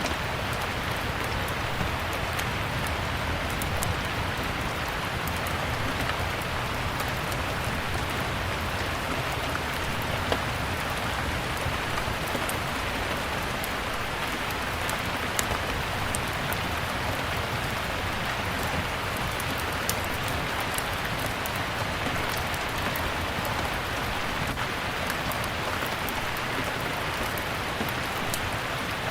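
Steady, even rain falling, with scattered sharp crackles and pops of a burning wood fire in a fireplace.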